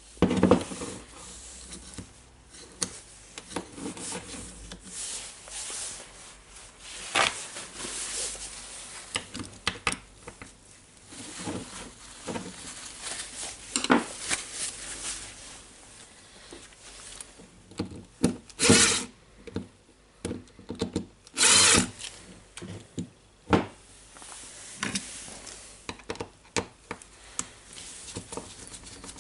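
Hand work on the parts of a DeWalt D25003 rotary hammer: irregular scraping and rubbing with scattered clicks and knocks, and two brief hissing bursts of about a second each about two-thirds of the way through.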